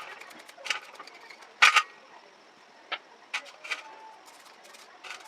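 Irregular sharp clicks and knocks of hand work on small metal parts, about seven in all, the loudest about one and a half seconds in.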